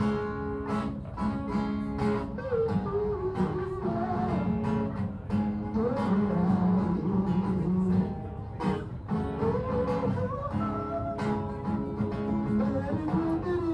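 Live guitar playing a song's instrumental intro: repeated strummed chords with a gliding, bending melody line over them.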